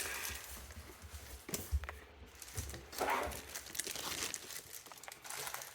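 Scattered clicks and rustling of hands working on the old pop-up sink drain's fittings under the basin, loosening it from the bottom, with a louder scrape about a second and a half in and again about three seconds in.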